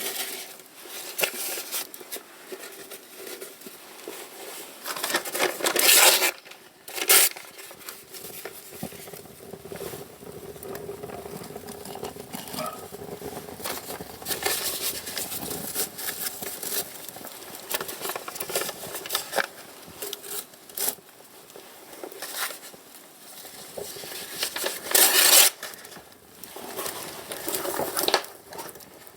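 Wood fire crackling and popping in a fireplace, a steady stream of small irregular snaps with a few louder bursts.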